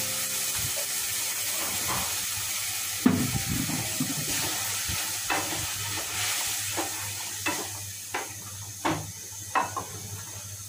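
Chickpeas sizzling in oil and masala in a steel pan as a wooden spatula stirs them in, just after they were added to the cooked-down spice paste. A sharp knock of the spatula on the pan comes about three seconds in, then a string of lighter knocks and scrapes.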